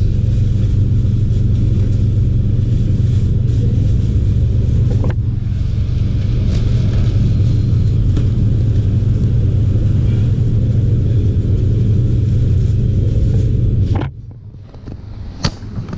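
Steady low engine rumble, like a vehicle running close by, that cuts off suddenly about fourteen seconds in.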